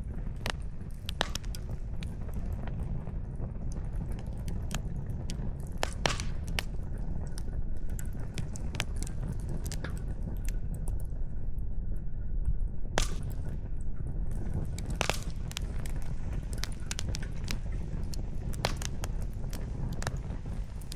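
Wood campfire burning, the firewood crackling with irregular sharp pops, a few of them louder, over a steady low rumble.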